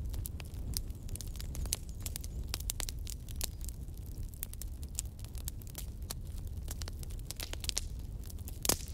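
Wood fire crackling: a steady low rumble of flames with many sharp, irregular pops and snaps, one louder pop near the end.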